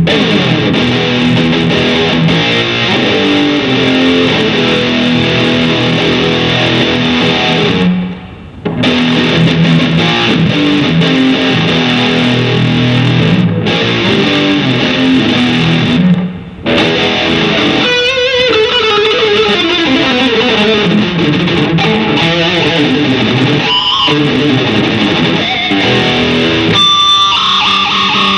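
Kramer custom electric guitar being played through an amp: chugging riffs broken by two short pauses, then, from about two-thirds of the way in, a lead line with string bends and vibrato.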